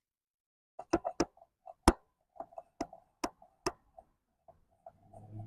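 A string of sharp, irregular metallic clicks and knocks, about seven, from tools and brake parts being handled while the motorcycle's front brake caliper cover is taken off.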